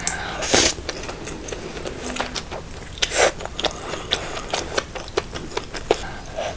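Close-miked eating sounds: chewing with small clicks and taps, as of utensils, and two short louder noisy bursts, about half a second and three seconds in.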